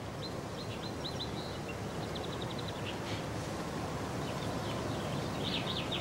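Outdoor ambience of birds chirping in quick runs of short, high notes over a steady background hiss.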